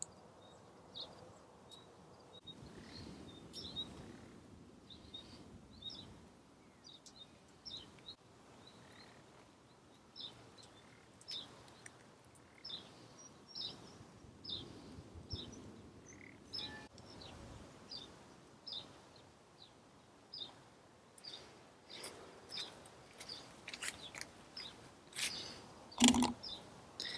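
Small birds chirping faintly outdoors, a short chirp repeated about once a second, with a brief thump near the end.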